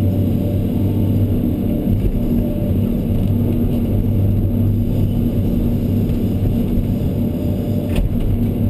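Excavator's diesel engine running steadily, with a short click about eight seconds in.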